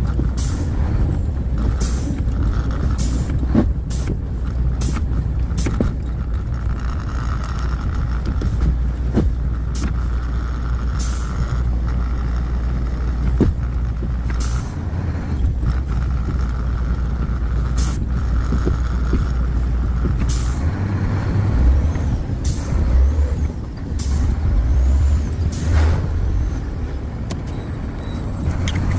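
Heavy truck's diesel engine running steadily at idle, a deep low rumble, with many short sharp clicks and hisses scattered through it.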